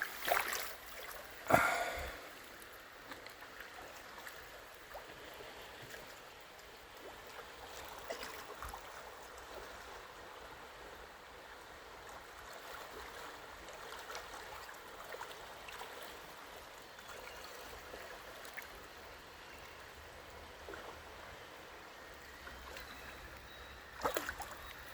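River water flowing steadily, an even rushing sound. A few brief louder sounds come near the start and again near the end.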